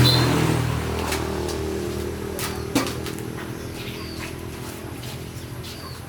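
An engine or motor hum that is loudest at the start and fades steadily away, with a few short bird chirps and a single sharp click near the middle.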